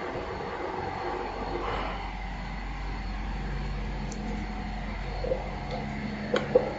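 Hot stamping machine running: a steady mechanical hum with a short hiss of air a little under two seconds in and a few sharp clacks near the end.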